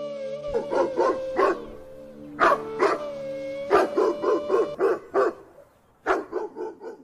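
A dog barking in quick runs of short, sharp barks, several in a row, with brief pauses between the runs.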